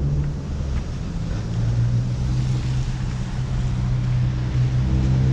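Street traffic: a motor vehicle's engine running close by as a low, steady drone, with wind noise on the microphone.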